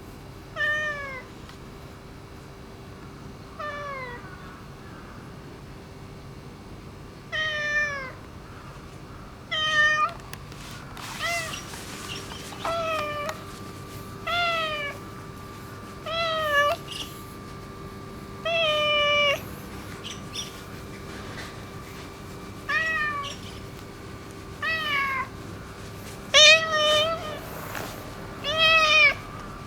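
Orange tabby tomcat meowing repeatedly, about fourteen calls a second or two apart, each short and falling in pitch: affectionate attention-seeking meows.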